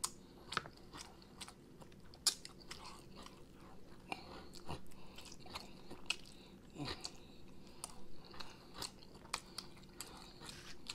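A man biting and chewing chicken wings, pulling the meat off the bones with his teeth, with many irregular sharp clicks.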